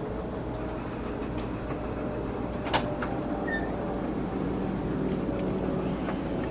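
Caterpillar 3406B inline-six diesel truck engine running steadily, after sitting unstarted for a long time, with a single sharp click a little under three seconds in.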